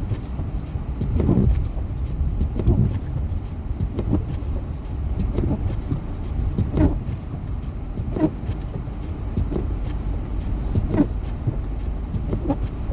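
Windshield wipers sweeping about once every 1.4 s, each stroke a short thump with a squeak, over the steady low rumble of the vehicle driving on snowy roads, heard from inside the cabin.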